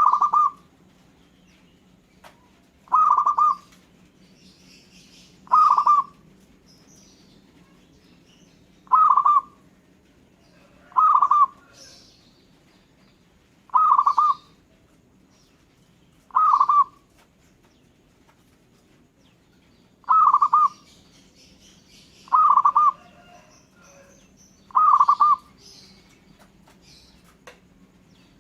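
Zebra dove (perkutut) cooing: ten short, trilled coos, one every two to three seconds. Faint higher chirps of other birds sound between them.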